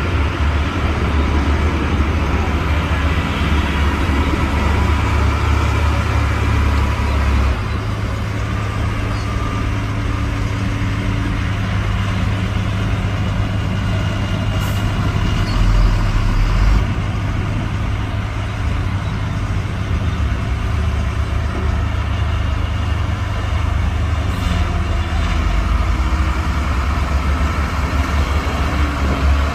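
Heavy diesel engines of dump trucks and a bulldozer running continuously. The engine note shifts about seven seconds in, with a brief low surge about sixteen seconds in.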